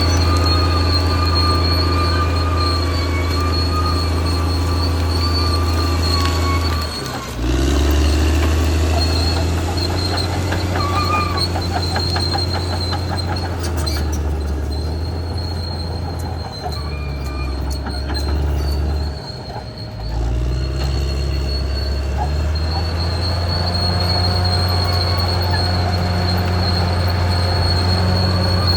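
Caterpillar D6R XL crawler bulldozer at work: its diesel engine runs with a steady low drone while the steel tracks give a thin, high squeal. The engine note dips briefly about seven seconds in and again around twenty seconds, and a stretch of rapid track clatter comes in between.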